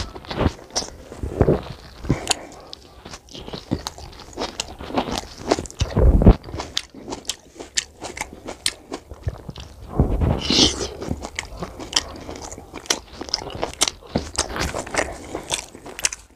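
Close-miked eating sounds: a mouthful of rice and mutton curry chewed wetly with lip smacks, in quick irregular clicks, along with fingers squishing rice into the gravy on a steel plate. Louder bursts come about six seconds in and again about ten seconds in.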